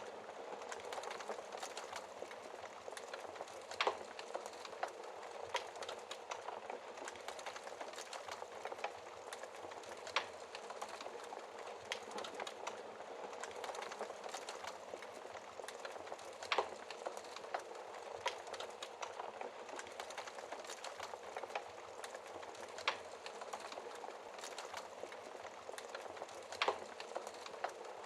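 Wood fire in a fireplace crackling steadily, a dense bed of small crackles with a louder sharp pop every five or six seconds.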